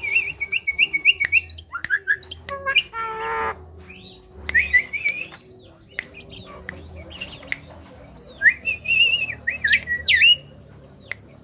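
Javan myna calling: runs of warbling whistled notes, a short harsh squawk about three seconds in, and many sharp clicks.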